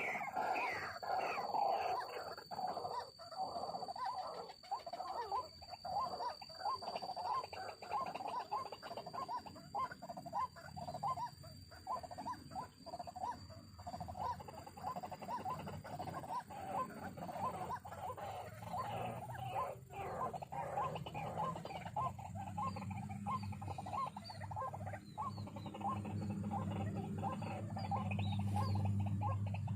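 White-breasted waterhen calling: a fast, continuous run of short repeated notes. A low hum builds up in the last several seconds.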